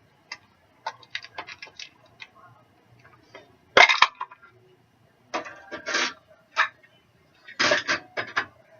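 Hard plastic clicking and clattering, with a sharp snap just before four seconds in and two more bursts of rattling after, as a Tupperware pull-cord chopper's housing is pried open with a fork so its jammed cord can be rewound.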